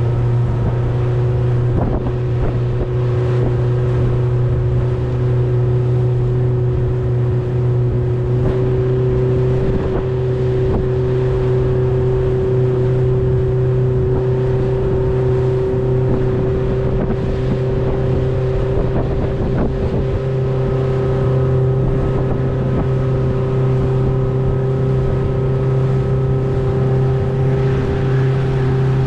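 Outboard motor of a small boat running steadily under way, its pitch edging up slightly about nine seconds in.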